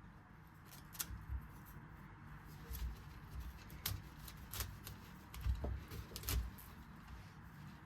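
Light kitchen handling noises: scattered soft clicks and knocks, some with a dull thud, about one a second, over a faint steady background hum.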